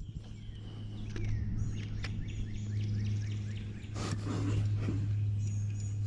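Songbirds chirping and calling in short repeated notes, over a steady low hum.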